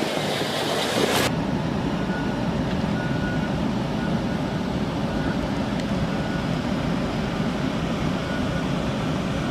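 Wind buffeting the microphone cuts off abruptly about a second in. It gives way to a steady low rumble of a large vehicle engine running, with faint short beeps repeating at irregular intervals.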